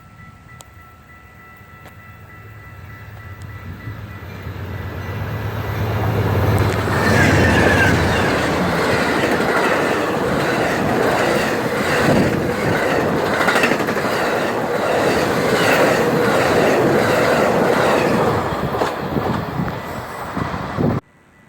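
Amtrak passenger train approaching and passing close by: a low engine hum grows louder, then the train is loud with a steady clickety-clack of wheels over rail joints. The sound cuts off suddenly near the end.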